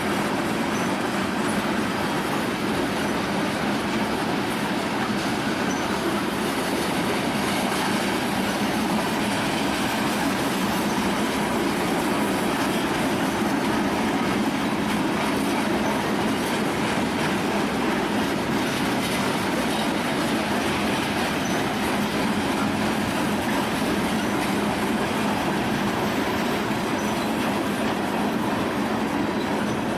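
Union Pacific freight train's cars rolling past steadily, wheels running on the rails.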